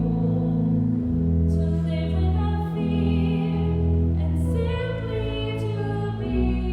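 Church music: a singing voice with vibrato over long held accompanying chords.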